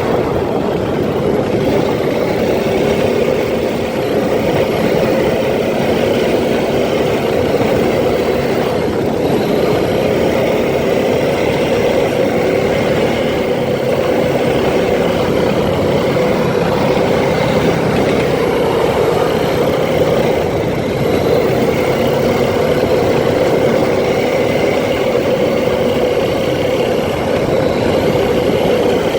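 ATV engine running steadily under way, heard from the rider's seat.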